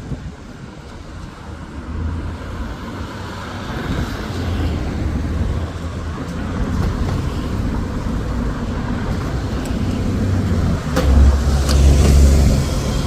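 Road traffic with a heavy engine, most likely a bus, running close by. Its low rumble grows louder and peaks about eleven seconds in.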